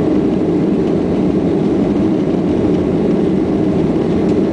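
Boeing 737's CFM56 turbofan engines at takeoff power, a steady, even noise strongest in the low-middle range.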